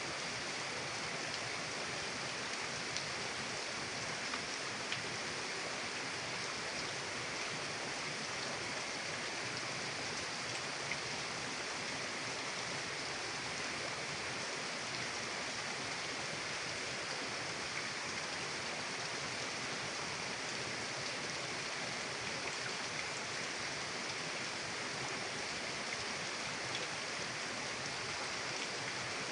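Mountain river water rushing steadily, an even hiss of flowing water with a few faint ticks.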